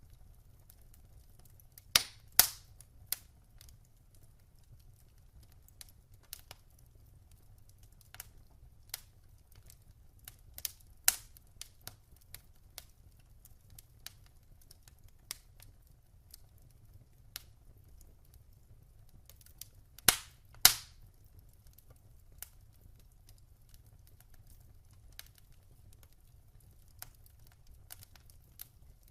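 Wood fire crackling in a fireplace: scattered sharp pops and snaps, with the loudest cluster about two seconds in and a pair of loud pops around twenty seconds in, over a faint low rumble.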